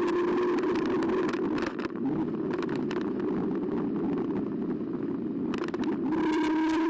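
Electric bike motor whine, one steady tone with overtones, fades out about a second in and returns near the end. In between there is steady rolling noise with scattered knocks from bumps.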